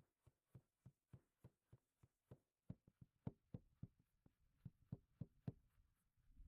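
Carrot being grated by hand: faint, regular strokes on the grater, about three to four a second, a little louder in the second half, stopping shortly before the end.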